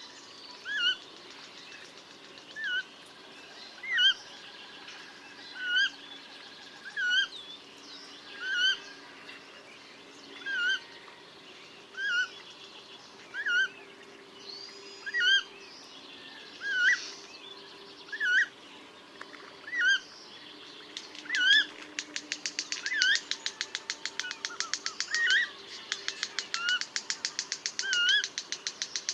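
Eurasian coot calling: a short, sharp, slightly rising call repeated about once every second and a half. About three quarters of the way through, a fast, even ticking, around ten ticks a second, joins in underneath the calls.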